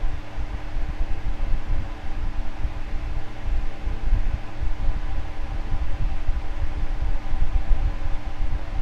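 Electric fan running steadily: a continuous low whooshing rumble with a few steady motor hum tones over it.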